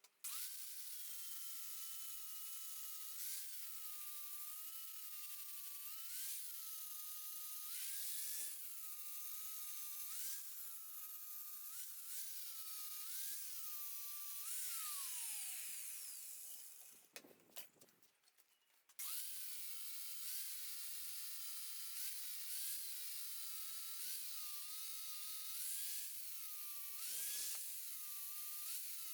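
Electric angle grinder with a cutting disc working steel. Its motor pitch dips and recovers about once a second as it is pressed in and eased off. It is switched off about 15 s in and spins down, then starts again about 19 s in and carries on the same way.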